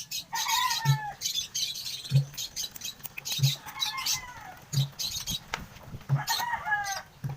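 Birds chirping, with several short high chirps and three longer falling calls. Underneath, a soft low thump repeats about every second and a quarter.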